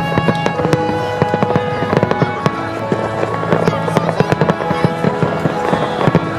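Fireworks crackling and popping, many sharp cracks in quick succession, over music with held notes.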